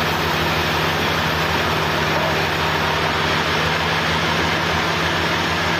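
Sawmill engine running steadily, with a constant low hum and even mechanical noise.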